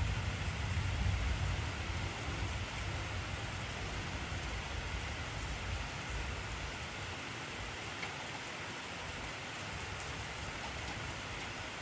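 Steady heavy rain, an even hiss of drops on surfaces. The tail of a low rumble of thunder fades out over the first few seconds.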